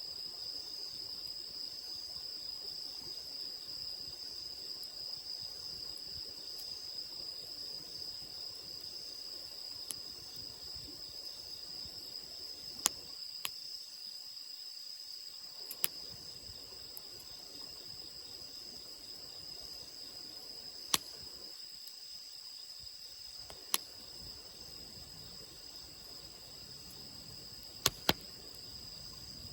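Wood campfire burning, giving off a handful of sharp, isolated crackling pops, over the steady high chirring of insects.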